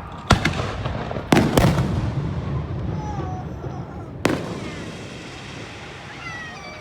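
Aerial fireworks shells bursting: four sharp bangs, two of them close together about a second and a half in, each trailing off in a rumbling echo.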